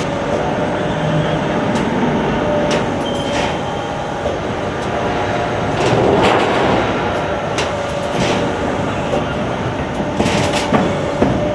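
Automatic HVAC duct production line running: steady machinery noise with a constant whine, broken every second or two by short sharp sounds.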